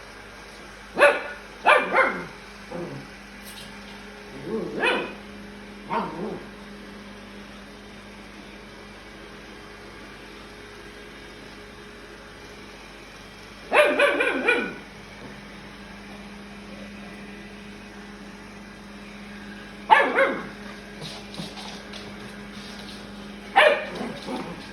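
Puppy barking in short bursts of one or two yappy barks, with long pauses between, over the steady hum of a robot vacuum cleaner.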